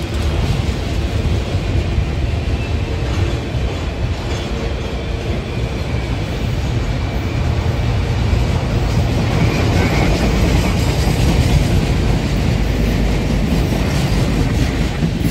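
Freight train of autorack cars rolling past: a steady rumble of steel wheels on rail, growing a little louder in the second half.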